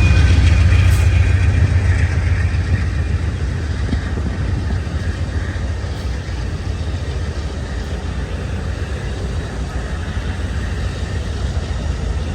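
Diesel-hauled train passing. A deep locomotive rumble eases off over the first couple of seconds, then gives way to the steady rolling noise of the train.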